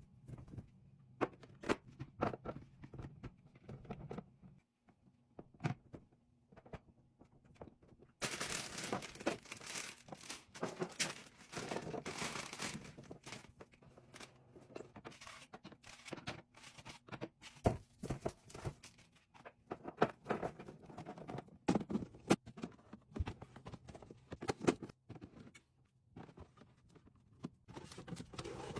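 Plastic packaging crinkling and tearing, mixed with scattered clicks and knocks of items being handled and set down, with a denser stretch of rustling about a third of the way in.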